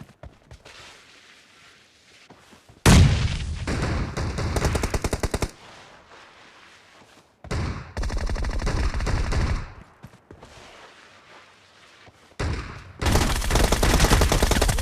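Video-game automatic gunfire: three sustained bursts of rapid, evenly spaced shots, each lasting two to three seconds, with quiet gaps between them.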